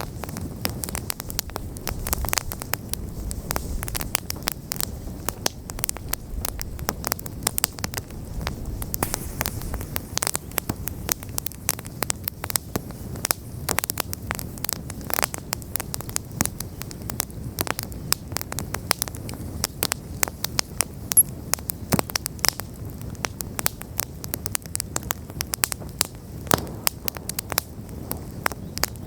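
Wood campfire burning, with a steady low rumble and dense, irregular crackles and pops from the burning logs.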